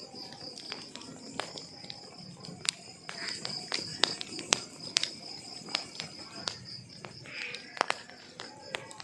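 Wood fire crackling, with irregular sharp snaps and pops several times a second, over a steady high-pitched trill in the background.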